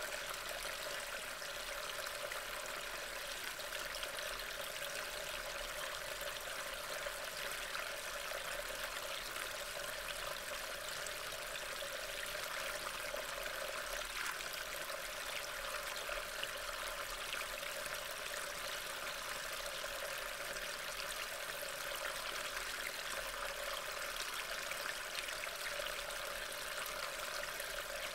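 Steady rain falling in woodland, heard as a constant, even hiss of drops through a trail camera's microphone.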